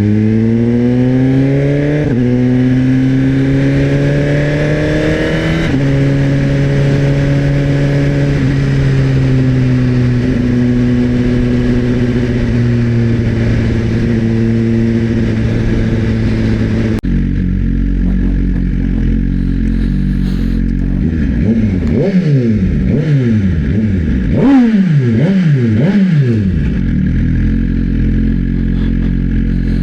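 The inline-four engine of a 2024 Suzuki GSX-R1000 through a LeoVince slip-on exhaust. It accelerates with the pitch climbing, shifts up twice in quick succession, then cruises with the note slowly falling. After an abrupt cut about halfway, it runs at a steady low note and is revved in a rapid series of sharp throttle blips, the loudest near the end.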